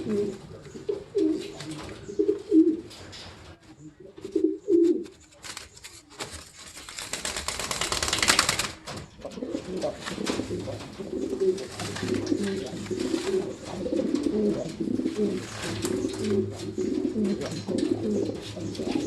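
Pigeons cooing: scattered low coos at first, then near-continuous cooing through the second half. A short swell of rustling noise rises and cuts off about eight seconds in.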